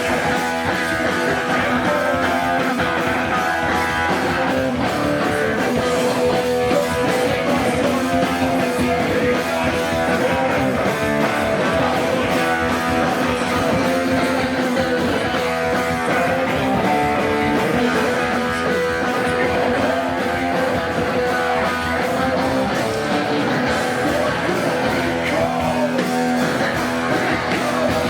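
Hardcore punk band playing live, electric guitars loud and steady over the full band.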